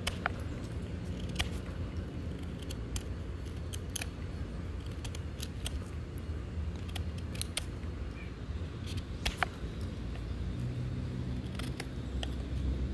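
Pocketknife blade cutting and whittling into oak wood: irregular sharp cutting clicks and snaps, a few seconds apart, over a steady low rumble.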